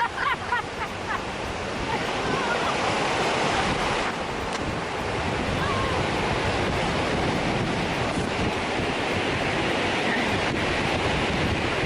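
Ocean surf breaking and washing up the shore, a steady loud rushing, with wind blowing on the microphone.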